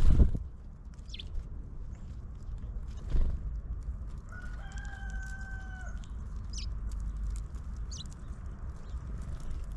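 A rooster crows once in the middle, one held level note about a second and a half long. Around it are a few short high chirps of small birds and two dull thumps, the loudest sounds, at the start and about three seconds in.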